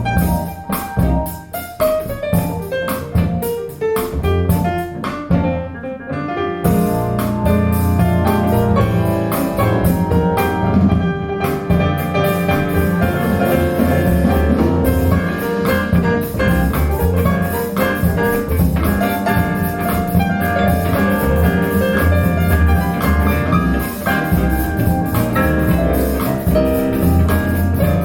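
Instrumental music with keys and drums played back through Wharfedale Linton Heritage loudspeakers; a fuller section with heavy bass comes in about seven seconds in.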